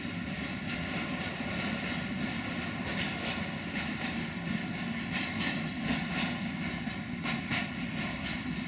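Freight train wagons rolling away inside a railway tunnel: a steady low rumble with scattered clacks of wheels over the rails.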